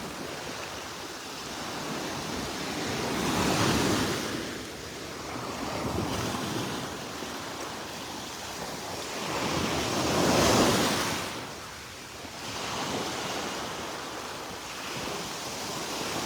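Small Gulf of Mexico waves breaking and washing along the shore, swelling up twice, with wind rumbling on the microphone.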